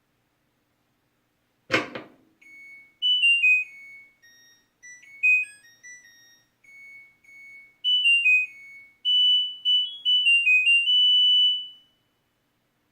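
A sharp click, then a washing machine's electronic beeper plays a short tune of pure-tone beeps stepping up and down in pitch, ending on one long held note.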